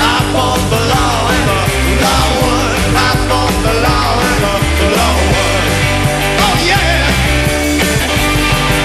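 Live rockabilly trio playing loud: electric guitar, upright bass and drums.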